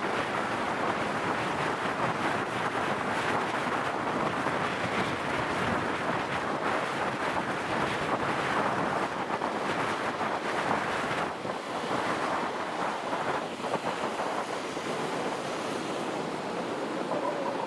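Steady wind rushing over the microphone of a moving motorbike, with road and engine noise blended underneath.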